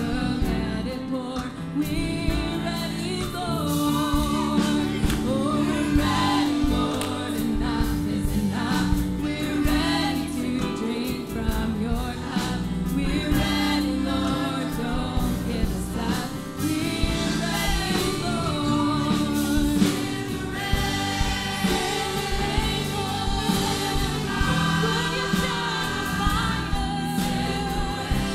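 A congregation singing a gospel hymn together with instrumental backing, several voices on a steady tune over a low sustained accompaniment.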